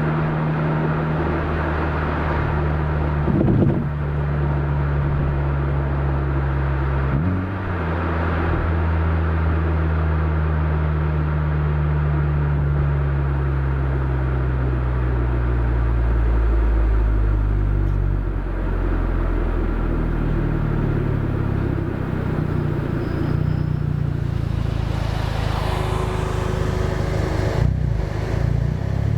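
Exhaust of a Honda Civic Type R (FK8) 2.0-litre turbocharged four-cylinder, with a catted downpipe and the stock catback, heard close up while driving. The steady exhaust note has brief breaks about 3.5 and 7 seconds in. From about 12 to 18 seconds in the note falls slowly as revs drop, then holds lower.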